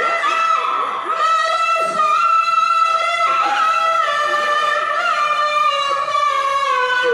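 A Qur'an reciter (qari) holds one long, high, ornamented note in melodic recitation, with small wavering turns; the pitch sinks slightly near the end.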